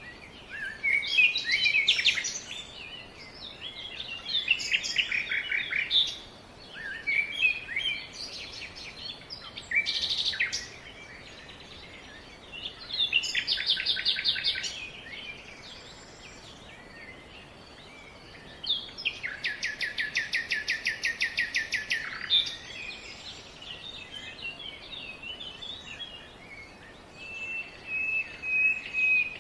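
Several wild birds singing and calling, with varied chirps and short phrases. A rapid trill comes about thirteen seconds in, and a longer, faster trill lasting about three seconds comes a little past the middle. A held whistled note sounds near the end.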